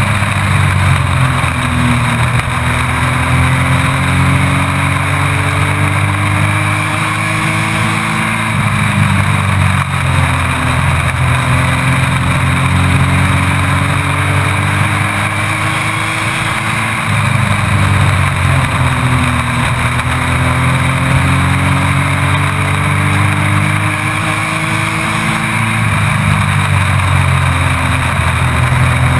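Race truck engine heard onboard at racing speed on a short oval, its pitch climbing for several seconds along each straight and dropping back as the driver lifts for the turns, about every eight to nine seconds.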